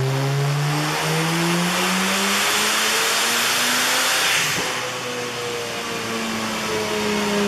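Mazda FD RX-7's twin-turbo 13B rotary engine under a dyno pull: it revs up steadily for about four and a half seconds, then the throttle comes off and the pitch falls away and settles.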